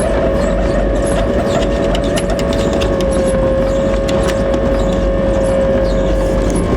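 Hoover AquaVision condenser tumble dryer running: the drum rumbles with light rattling ticks over a steady high squeal from the failed condensate pump. The pump no longer lifts water from the reservoir to the door tank.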